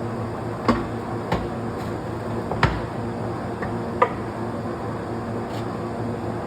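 Broadbent heavy-duty gap bed centre lathe running under power, its headstock gearing giving a steady low hum. Four short sharp knocks come over it in the first four seconds.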